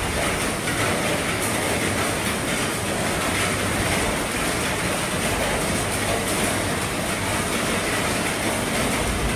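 Heavy rain falling steadily on an RV roof.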